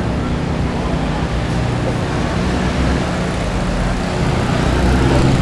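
City bus engine running steadily with a low hum as the bus moves through flood water, growing louder about four and a half seconds in.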